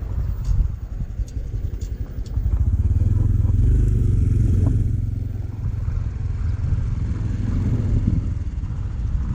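Motorcycle running along the road, a steady low rumble that grows louder about three seconds in and eases off after five seconds. A few light clicks sound in the first couple of seconds.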